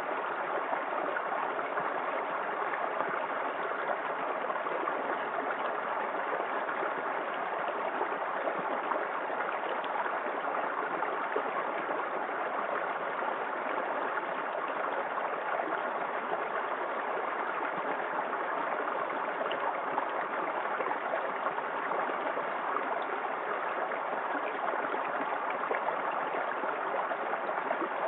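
Small waterfall in a forest creek: water spilling and running over rocks in a steady, unbroken rush.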